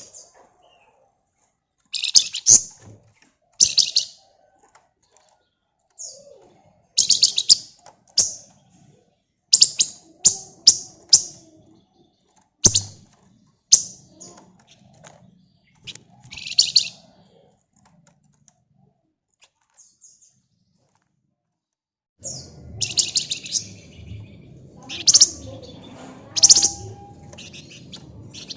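A flamboyan (wergan Jawa) songbird singing in short, loud bursts of high, rapid rattling chirps, separated by pauses. The song falls silent for a few seconds past the middle, then resumes over a steady background hiss.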